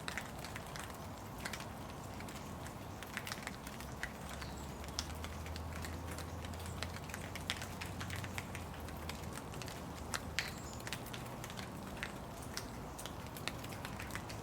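Rain falling, with many scattered drops tapping and crackling close by over a steady hiss. A low hum rises for a few seconds around the middle.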